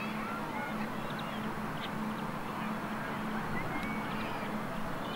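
Birds calling in short chirps and squawks several times, over a steady outdoor background noise and a low hum that breaks off now and then.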